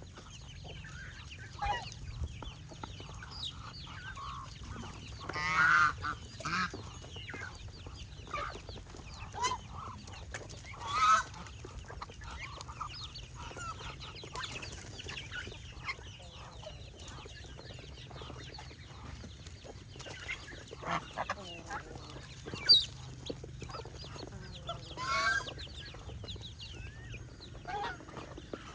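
Farmyard poultry flock calling: continuous clucking and chatter, with a few louder calls standing out now and then.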